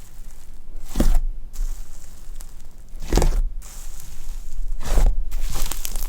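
Fluffy slime being squeezed and stretched by hand, giving crackly, squishy bursts about a second in, around three seconds and around five seconds, then a denser run of crackles near the end.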